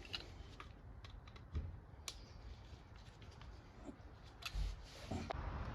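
Scattered light clicks and taps, with a couple of dull knocks, from a small Torx key being fitted and turned in the screws of a Dyna S electronic ignition pickup plate.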